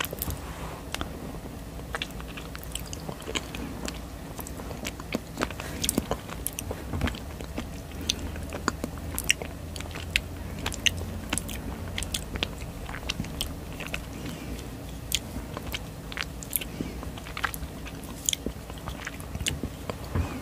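Close-miked biting and chewing of a bottle-shaped honey jelly: many small, irregular mouth clicks and squishes.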